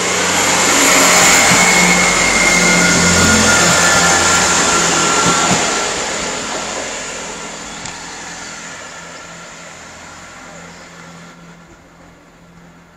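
Diesel passenger train passing through the station at speed: a loud rush of wheels on rail and engine noise for the first five seconds or so, then steadily fading away.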